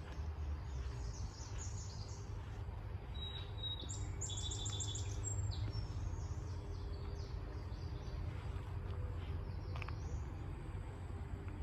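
Wild songbirds singing, with a quick run of about half a dozen high repeated notes about four seconds in and scattered shorter calls after, over a steady low rumble.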